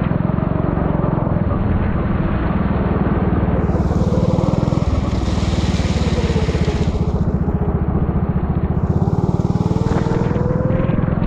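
Four-stroke Honda kart engine running hard, its revs rising and falling through the corners, heard from the driver's helmet. A rushing hiss of wind or spray swells over it twice, about a third of the way in and again near the end.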